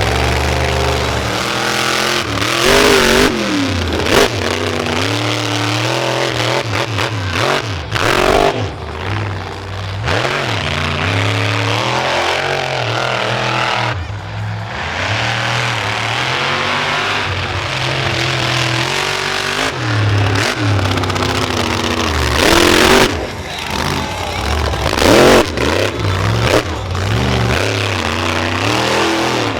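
Monster truck engine revving hard over and over, its pitch swooping up and down, with several loud rushes of noise along the way.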